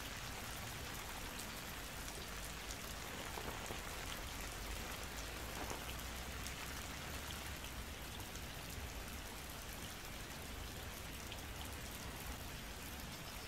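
Steady rain, an even hiss with faint scattered patter of drops.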